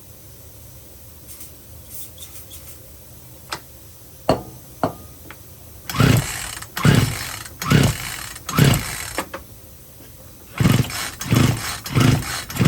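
Poulan Pro 42 cc two-stroke chainsaw being pull-started: two series of quick rip-cord pulls, about one a second, each a short whirring crank of the recoil starter and engine. The engine never fires; it won't even burp, although it has compression, spark and fuel.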